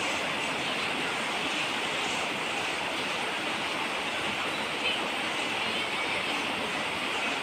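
Steady falling rain, an even hiss with no let-up.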